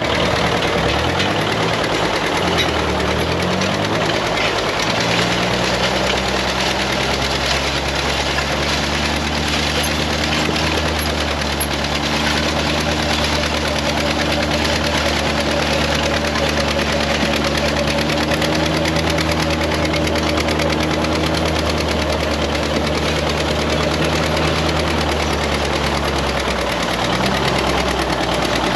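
Two-cylinder engine of a John Deere 730 tractor running under load. Its speed shifts up and down over the first few seconds, then holds steady.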